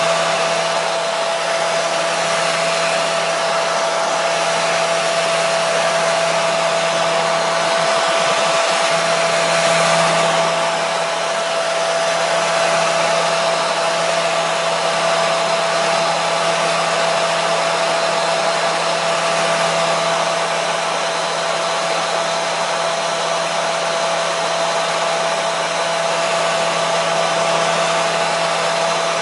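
Electric hair dryer running continuously: a steady rush of blown air with a constant whine from the fan motor and a low hum underneath.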